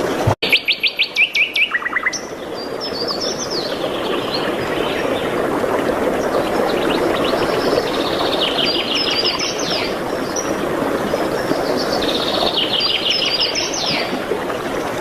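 A songbird singing repeated phrases of quick high notes that end in a rapid trill, one phrase every few seconds, over a steady rushing background. The sound cuts out for an instant just after the start.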